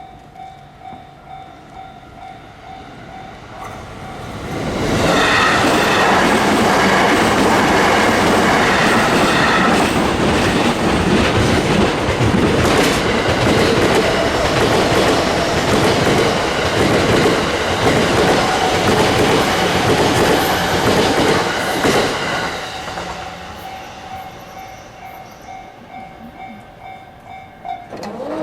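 A level crossing's warning bell rings in a steady, quick pulse. About four seconds in, Chuo Line limited express electric trains rush through the crossing, loud for about seventeen seconds with a rhythmic clatter of wheels over rail joints. The train noise then fades out, leaving the bell ringing on.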